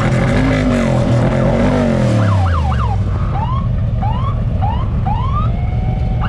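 A car engine revving up and down, then a run of short rising siren-like whoops, about two a second, over a low engine rumble.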